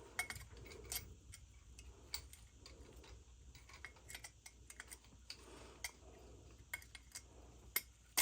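Small metal oil-burner parts clicking and tapping irregularly as the burner head is fitted back on, with a sharper click near the end, over a faint steady low hum.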